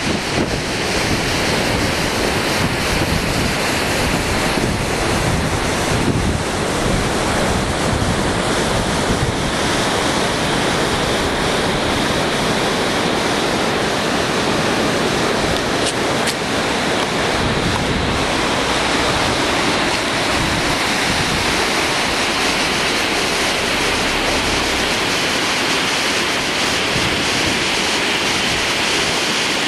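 A river in flood: a steady, loud rush of fast, high water, with wind buffeting the microphone.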